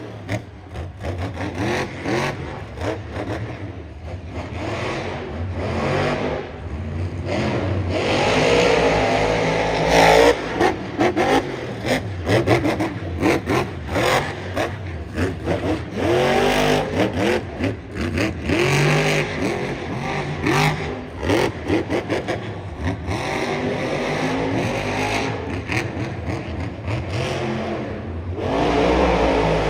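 Monster truck engine revving hard over and over, its pitch climbing and falling repeatedly, with sharp crackles and knocks mixed in.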